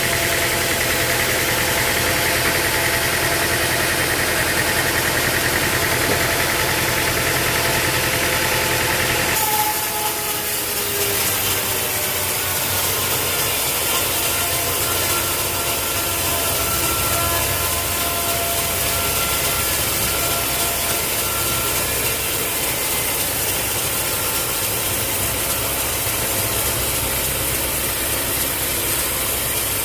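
Sawmill machinery running steadily, an engine drone under a high hiss. The sound changes abruptly about nine seconds in.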